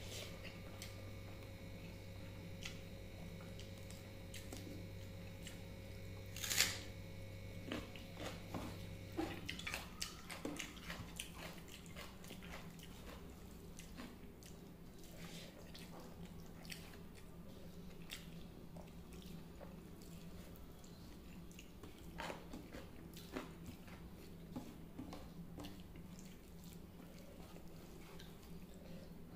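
Close-up eating sounds of rice and fish curry eaten by hand: chewing with many short wet smacking clicks, and the squish of fingers working rice on the plate. One louder sharp sound comes about six seconds in, and a steady low hum runs underneath.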